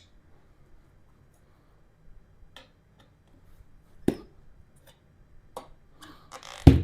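Motion Pro bead breaker bar working a motorcycle tire bead loose from the rim: a few scattered metal clicks and knocks, with a short scrape and the loudest knock near the end.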